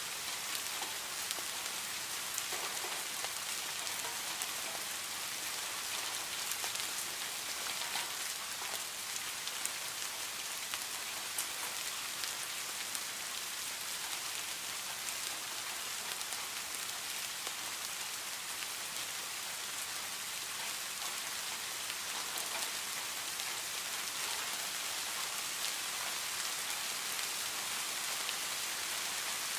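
Rain falling steadily on leaves and plants: an even hiss full of sharp individual drop taps.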